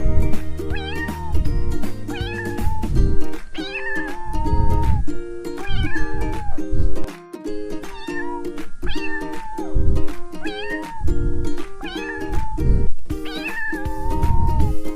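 Domestic cat meowing over and over, roughly once a second, over backing music with a steady beat.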